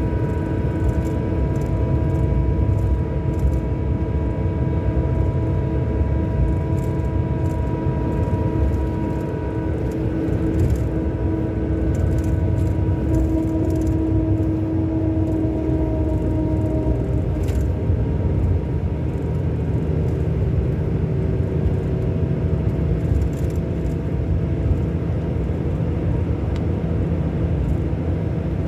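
Scania K400 coach's 13-litre six-cylinder diesel engine running steadily with a low rumble. A high whine rides on it and fades out about two-thirds of the way through. There are light rattles throughout.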